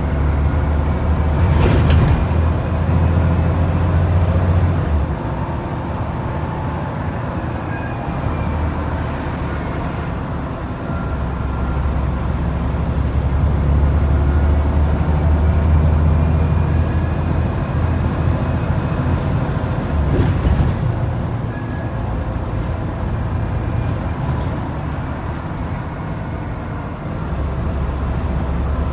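Scania N94UD double-decker bus's DC09 nine-litre five-cylinder diesel running hard under load, surging and easing in long stretches as it pulls through held gears, with a faint whine rising and falling over it. A short hiss of air from the air brakes comes about nine seconds in.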